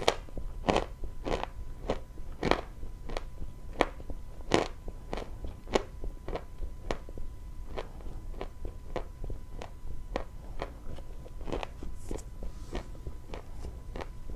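Close-miked chewing of dry chalk: sharp crunches about one and a half a second, becoming softer in the second half.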